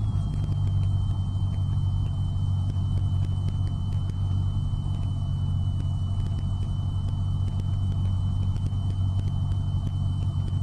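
Cessna 172's piston engine and propeller droning steadily, heard inside the cockpit, with a thin steady high whine above it.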